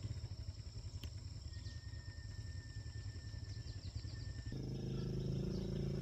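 Small engine running, a low pulsing idle that changes abruptly a little past the middle to a steadier, higher hum. Birds chirp over a steady high buzz.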